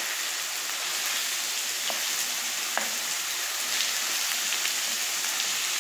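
Sliced Tuscan sausage and chopped onion sizzling steadily in a frying pan as they sauté, stirred with a wooden spoon, with a couple of light clicks about two and three seconds in.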